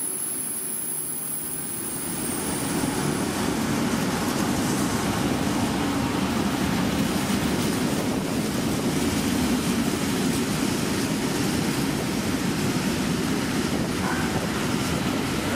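Covered freight wagons rolling past on the rails, a steady rumble of wheels and running gear that grows a little louder a couple of seconds in. A faint high wheel squeal fades away in the first few seconds.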